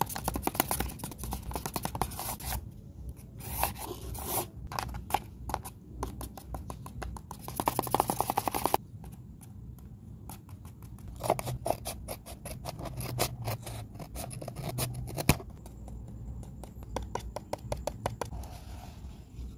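Paper handled close to the microphone: rolled-paper fake nails and paper sheets rustling, scraping and crinkling in quick runs of small clicks, busiest in the first half.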